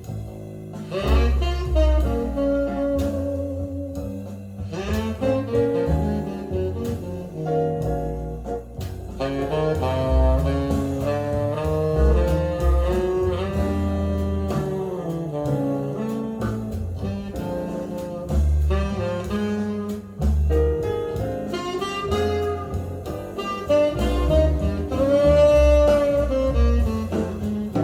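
Jazz band playing an instrumental break between sung verses: a lead melody line over steady bass and rhythm accompaniment.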